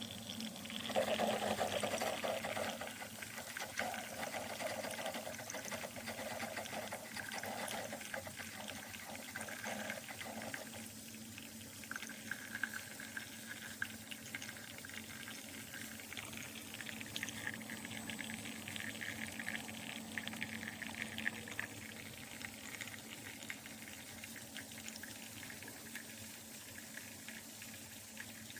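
Single-serve mini coffee maker brewing, with coffee pouring and trickling into a mug over a steady low hum. The flow is strongest in the first ten seconds or so, then settles into a thinner, uneven trickle.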